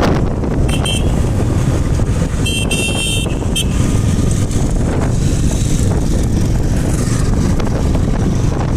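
Heavy wind rumble on the microphone during a motorcycle ride, with a vehicle horn honking: a short toot about a second in, then a longer honk and a brief one a couple of seconds later.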